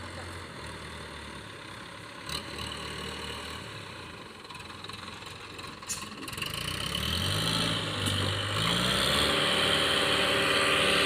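Heavy diesel engine of a recovery vehicle running at low revs, then revving up in steps about two-thirds of the way in and held at higher revs under load, with a high whine rising over it. Two short clicks or knocks come early on the low-rev stretch.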